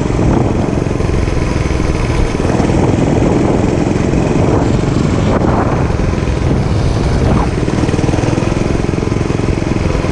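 Dirt bike engine running steadily under way, with no big changes in speed.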